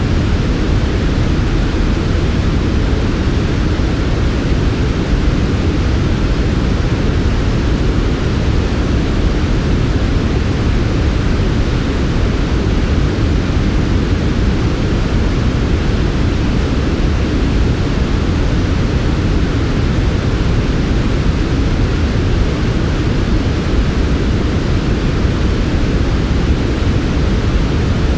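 Steady, unbroken synthetic white noise, softened so that it is heavier in the lows than the highs.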